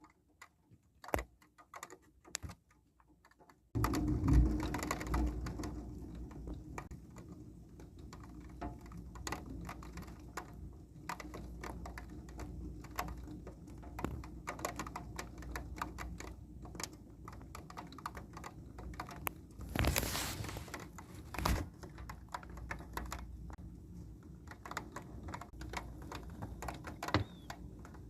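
Thunderstorm rain pattering and dripping in quick, irregular taps over a low steady rumble. It comes in suddenly about four seconds in, after a few scattered drops, and swells once more around twenty seconds in.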